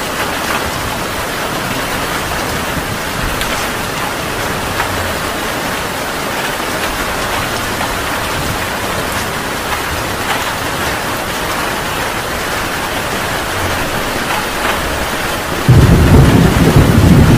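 Heavy rain pouring steadily. Near the end, a loud, deep thunderclap breaks in and keeps rumbling.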